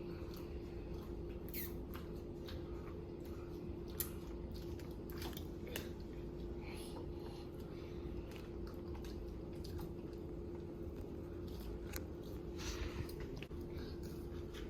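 Children chewing food, with scattered wet mouth clicks and smacks over a steady low hum.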